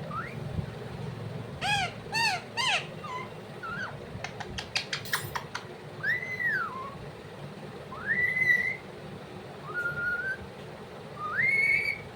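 Pet parrot whistling: a string of short whistled notes, some arching and some rising and held, with a few sharp clicks near the middle.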